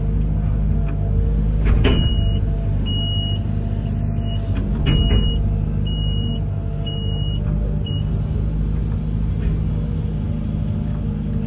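Amphibious excavator's diesel engine running steadily, with a high warning beeper sounding about once a second for several seconds through the middle and a couple of sharp knocks.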